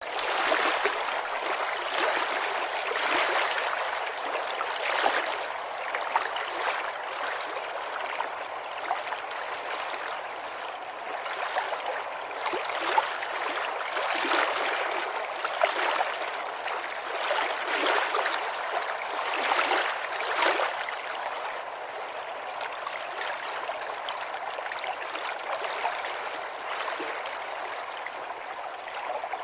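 A small stream running steadily over stones, gurgling and splashing, with brief brighter splashes every second or two.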